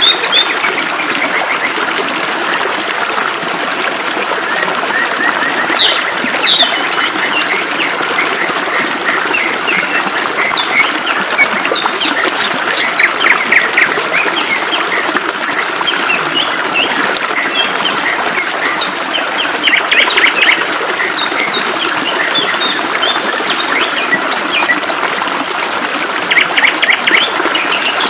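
Small birds chirping and trilling over the steady hiss of flowing water, with bursts of rapid repeated notes around the middle and near the end.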